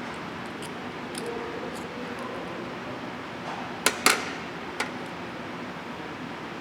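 Steady background hiss with a few sharp clicks: two close together about four seconds in, then a fainter one shortly after.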